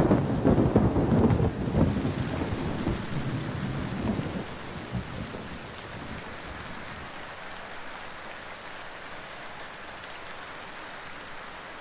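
Thunder rumbling and dying away over the first few seconds, then steady rain.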